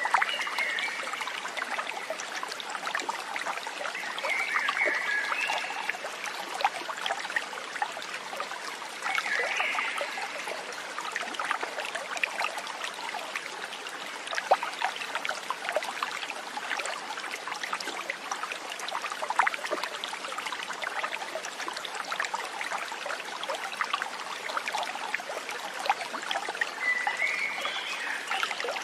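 A small stream trickling and babbling steadily over stones. Short high animal calls break through four times.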